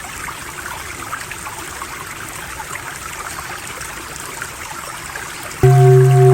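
Running water trickling and splashing steadily, like a small stream. About five and a half seconds in, a low electronic 'om' drone cuts back in abruptly, with pulsing upper tones over a steady low hum.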